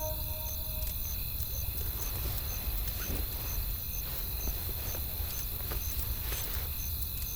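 Wood fire crackling, with scattered sharp pops at irregular intervals over a steady low rumble. A faint high chirp repeats about twice a second throughout.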